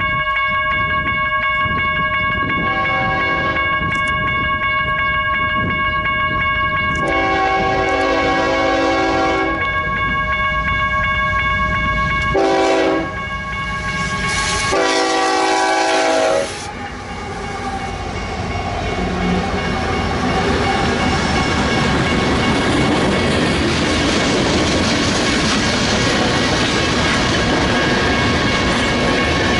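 Union Pacific locomotive air horn sounding the grade-crossing signal, long, long, short, long, as the train approaches. The train then passes, its cars rumbling and clattering over the rail joints.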